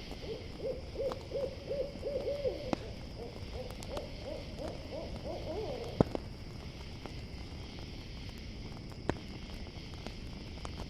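An owl hooting in a long, rapid series of short notes, about four a second for some six seconds, rising slightly in pitch and fading in the second half. Crickets chirr steadily behind it, and a campfire gives sharp pops, the loudest at about six seconds and another at about nine.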